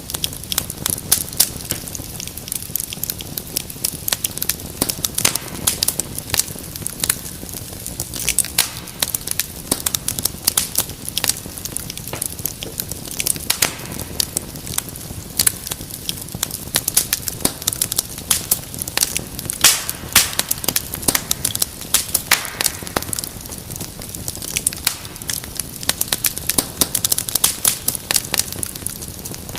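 Wood fire crackling steadily, with many irregular sharp pops and snaps over a soft low hiss.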